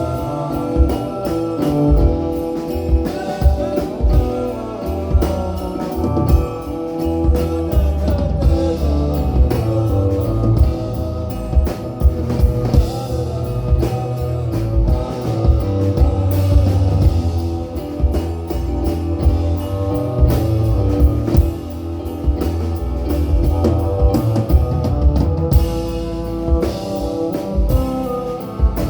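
Live alternative-folk band playing an instrumental passage: guitar, fretless bass, electric cello and drum kit, with steady drum hits throughout.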